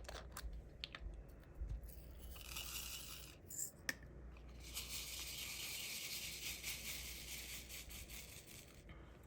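Light clicks and plastic handling, then tiny resin diamond-painting drills pouring and rattling in a plastic tray as a steady high hiss for a few seconds that fades near the end.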